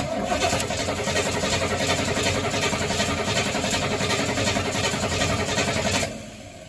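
A 1973 Ford Mustang's engine being cranked by its starter motor with a fast, even rhythm for about six seconds without firing, then the cranking stops. The engine cranks strongly but won't start, which the owner puts down to an ignition fault, a lack of fuel or a flooded engine.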